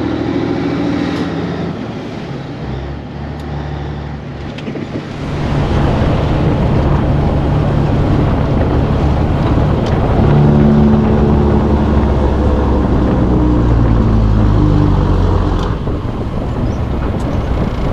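Semi truck's diesel engine running, getting louder about five seconds in as it pulls under load, its note rising and falling through the rest of the stretch.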